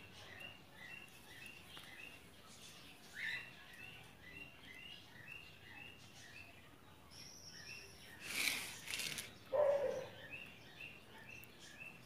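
A bird chirping steadily, about three short chirps a second alternating between two pitches. A burst of noise about eight seconds in is followed by a brief, louder, lower sound near ten seconds.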